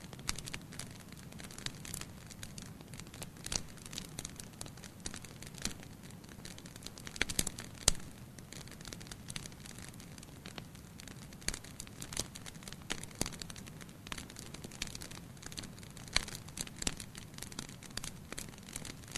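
Wood fire burning in a fireplace: a low steady roar with irregular crackling and sharp pops, a few louder snaps about seven to eight seconds in.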